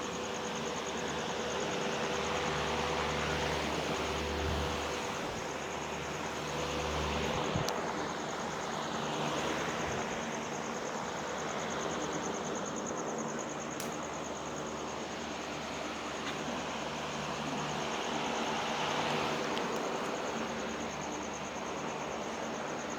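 Steady outdoor background noise with a constant low hum and a fast-pulsing high-pitched buzz, like insects.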